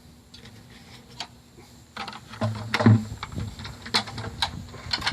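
Irregular clicks and knocks of objects being handled, with a cluster of louder thumps about two and a half to three seconds in and another near the end.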